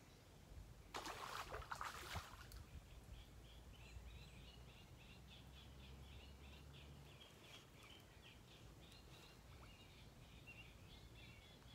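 Faint songbird singing a long, fast run of high chirps from about three seconds in. A brief rustle comes before it, about a second in.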